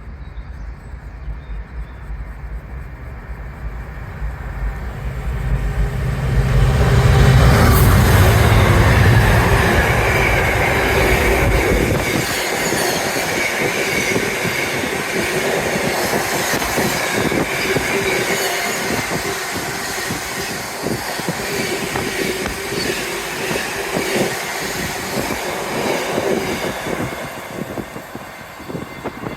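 A train passing through a station at speed. It builds to full loudness about seven seconds in, with a deep rumble that stops about twelve seconds in, followed by rapid clattering of wheels over the rails that fades near the end.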